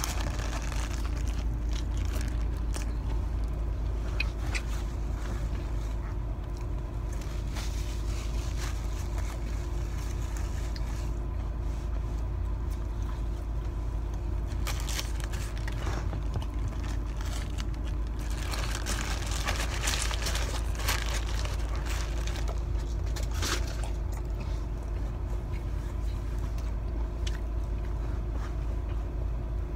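A person chewing a crispy fried chicken sandwich, with scattered small crunches and paper-wrapper crinkles that are busiest about two-thirds of the way through, over a steady low hum inside a car's cabin.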